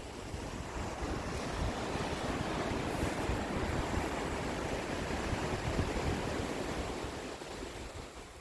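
Sea waves breaking and washing on the shore: a long rush of surf that swells and then fades near the end, with low wind rumble on the microphone.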